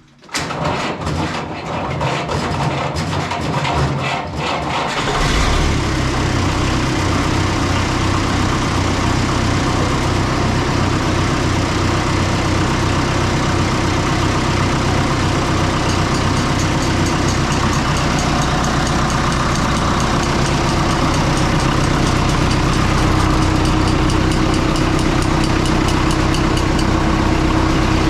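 Oliver 66 diesel tractor engine cranking on the starter for about five seconds while still cold, then catching and settling into a steady idle.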